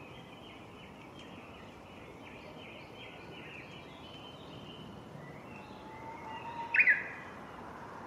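Japanese bush warbler (uguisu) singing its hō-hokekyo song once: a long, low whistled note from about five and a half seconds in, then the loud, quick hokekyo flourish near the end. Faint high chirping sounds in the background for the first five seconds.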